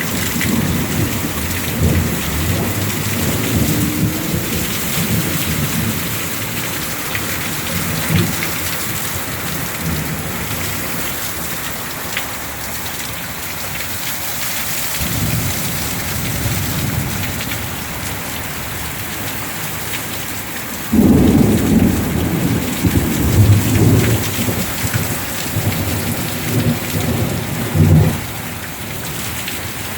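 Heavy rain pouring steadily, with thunder rumbling through it. A loud roll of thunder breaks in suddenly about two-thirds of the way through and rumbles on for several seconds before easing.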